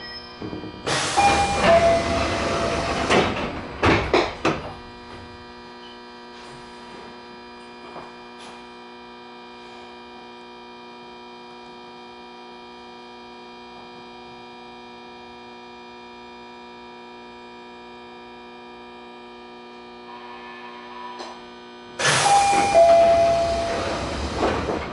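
San'yo 3200 series electric train standing at a station. About a second in, its sliding doors work with a loud hiss and a short falling two-note tone, ending in thuds. A steady electrical hum with several whining tones follows while it stands, and near the end the door hiss and two-note tone come again.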